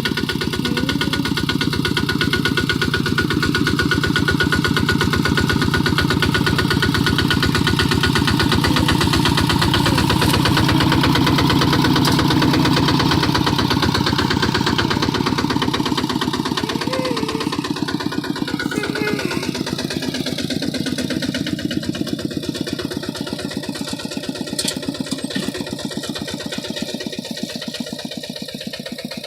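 Kubota RT155 single-cylinder diesel engine on a hand tractor, running steadily with a rapid, even firing beat. It grows somewhat quieter from a little past halfway.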